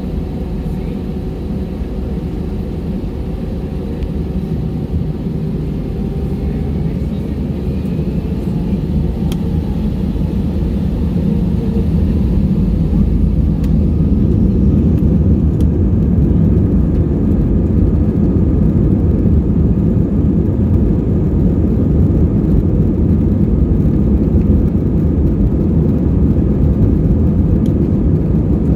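Inside the cabin of an Airbus A320-232: its IAE V2500 engines and the deep rumble of the takeoff roll grow louder over the first fifteen seconds, then hold at a steady roar.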